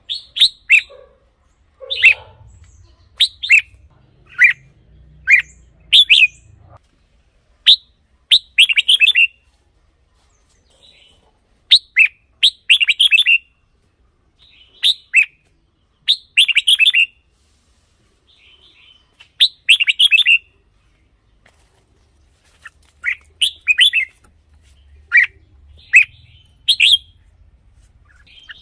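Red-whiskered bulbul singing short, quick phrases of clear whistled notes, one phrase about every second, with pauses of a second or two between some of them.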